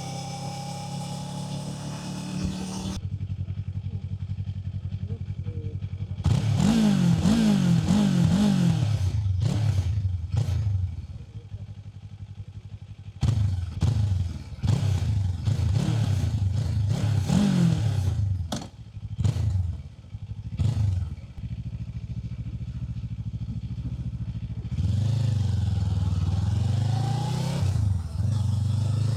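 Kawasaki Z500's parallel-twin engine under way. Its revs rise and fall quickly several times from about six to eleven seconds in, and again from about thirteen to twenty-one seconds in, with a steadier drone in between and near the end.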